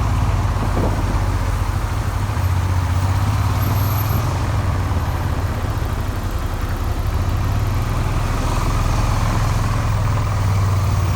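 Suzuki SV400 V-twin engine running steadily while the motorcycle is ridden, with wind rushing over the microphone. The engine's crankshaft was refinished by hand in a garage, and the bike is held to moderate revs, around 3000 rpm.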